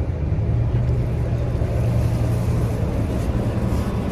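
Harley-Davidson Road Glide's V-twin engine idling with a steady low rumble, run during an oil change to shake the last oil out of the drain.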